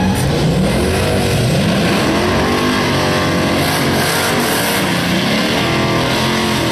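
Car engine revving up and down again and again, its pitch rising and falling every second or so.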